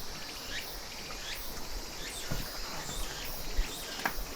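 Outdoor insect chorus: a steady high-pitched buzz with short chirps repeating every half second or so.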